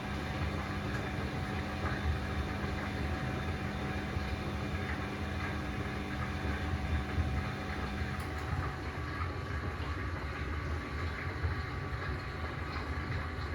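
Bosch Classixx 6 washing machine starting its 600 rpm intermediate spin: a steady running rumble with a low hum that stops about eight seconds in.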